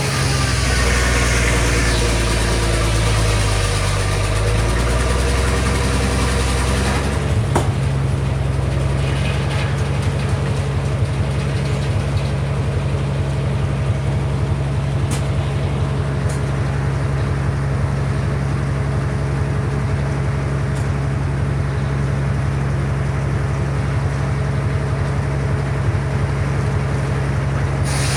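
The engine and circular saw of a Frick sawmill running steadily while milling black walnut. The sound is busier and harsher for about the first seven seconds, then settles into a steadier hum after a click.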